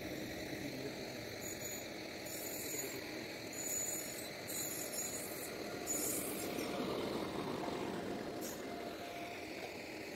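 An electric-hauled passenger express train rolls slowly into a station, with a steady rail rumble that grows louder as the locomotive passes about six seconds in. Short high hissing bursts come several times over the rumble.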